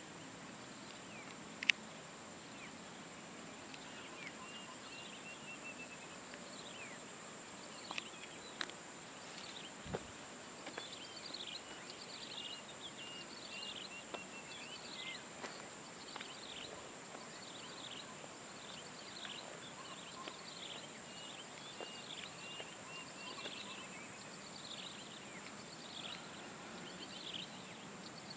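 Birds calling over and over with short, quick falling chirps, over a steady high-pitched drone. A few sharp clicks are also heard, the loudest about two seconds in.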